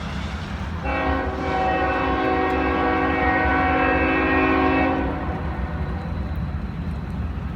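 Norfolk Southern diesel freight locomotive sounding its air horn in one long chord of about four seconds, over the low rumble of the train's engines, which carries on after the horn stops.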